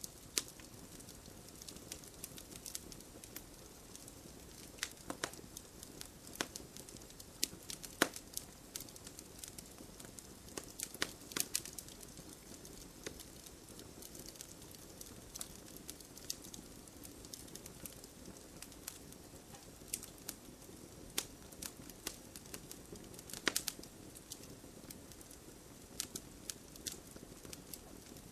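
Campfire burning: irregular sharp crackles and pops of burning wood over a steady soft hiss of the flames, with a small cluster of louder pops near the middle.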